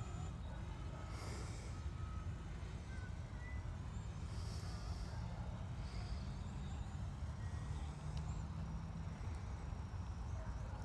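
Steady low outdoor rumble with no clear single source, with a few faint, short, high chirps over it.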